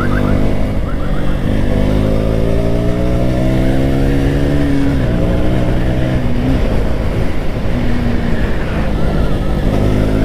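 KTM RC single-cylinder motorcycle engine pulling under acceleration, heard from the rider's seat. Its pitch climbs through a gear, drops at a gear change about five seconds in, then runs steady with small throttle blips before climbing again near the end.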